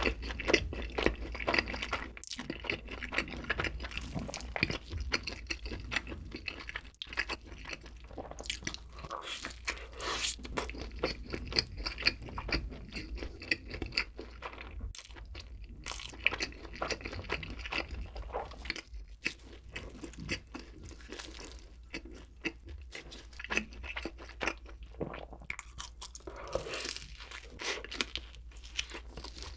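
Close-miked chewing of chicken, with frequent crunchy bites and chewing sounds.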